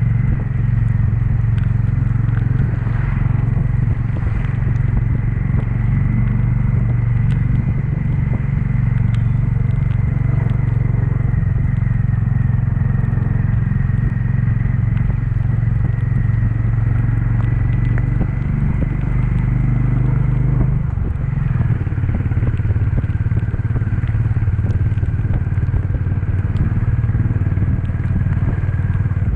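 Honda CB350's single-cylinder engine running steadily while riding, its note shifting about two-thirds of the way through.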